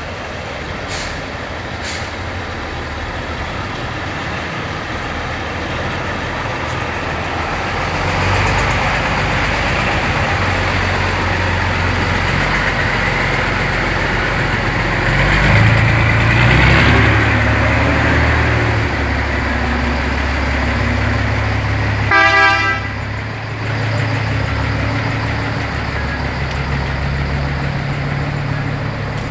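Scania truck diesel engines running as the trucks pull away and drive past, the engine sound growing louder about eight seconds in and loudest around the middle. A short horn blast sounds about 22 seconds in.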